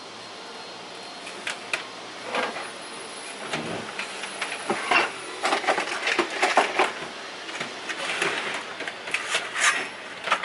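Hand work on a wooden boat frame: irregular clicks, knocks and scrapes over a steady hiss, starting about a second and a half in and growing busier toward the middle.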